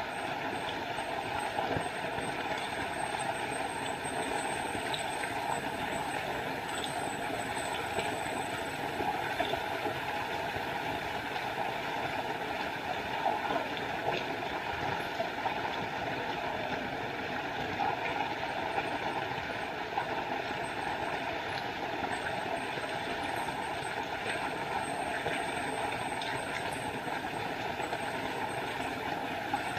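Small forest waterfall: water falling and rushing in a steady, unbroken wash.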